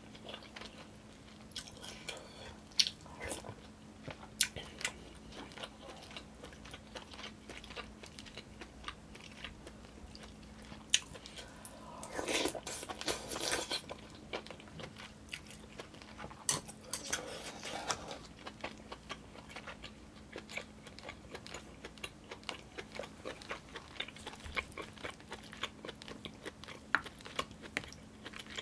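Close-miked eating sounds of a person chewing mouthfuls of yukgaejang (spicy beef soup) with rice, many short sharp clicks throughout, with a longer, louder rush of sound about twelve seconds in.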